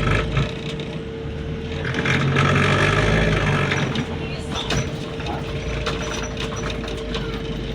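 Interior of a moving city bus: a steady drive whine over a low rumble, with loose interior panels rattling and clicking throughout.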